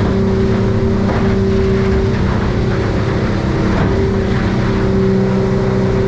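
Yamaha F300 V6 four-stroke outboard running steadily under way, with the rush of water and wind around the boat; the engine note dips slightly a couple of times.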